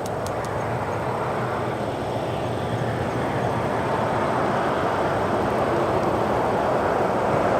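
Airbus A320-232 airliner on landing approach, its IAE V2500 turbofan engines giving a steady jet rumble that grows gradually louder as the aircraft comes closer.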